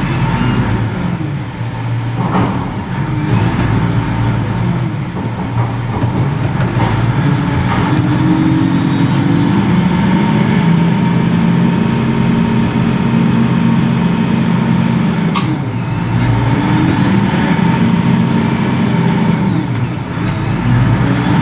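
Reach stacker's diesel engine running under load with a steady thin whine above it. The engine speed rises about a third of the way in, holds, drops back about three-quarters of the way through, and rises again near the end.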